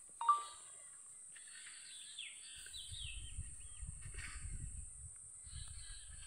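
Outdoor ambience with birds calling: one short sharp call just after the start, then a run of quick falling notes. A steady high hiss sits under it, and a low rumble comes in about two and a half seconds in.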